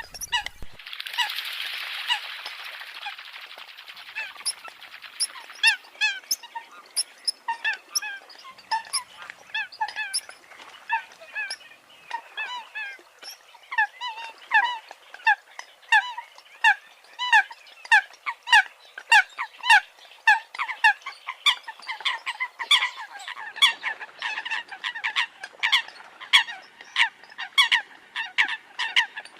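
Eurasian coots calling: a dense run of short, sharp honking calls, several a second and overlapping as from more than one bird, with a burst of hiss in the first few seconds.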